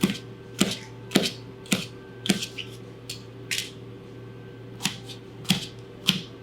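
Kitchen knife slicing a bell pepper, the blade knocking on the cutting board with each stroke, about two strokes a second. There is a pause of about a second partway through.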